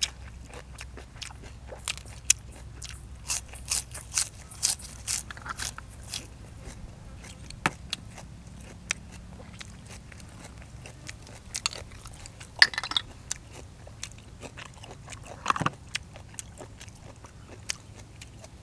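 Close-miked eating: a person chewing and crunching through boiled field apple snails and fresh raw vegetables, with sharp crunches coming in clusters a few seconds in, again past the middle and once more near the end.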